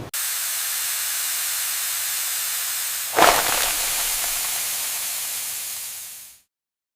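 A steady high hiss that starts abruptly, with a louder sudden surge about three seconds in, then fades and cuts off into silence near the end.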